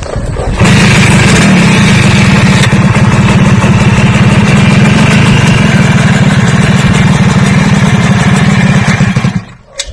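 A motor starts abruptly and runs loudly at a steady high speed, then cuts off suddenly near the end.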